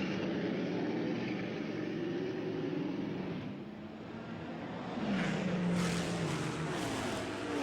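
Turbocharged flat-twelve engines of Porsche 917 Can-Am race cars at racing speed, their pitch rising and falling with shifts and passes. One car is loudest about five seconds in, then drops in pitch as it goes by.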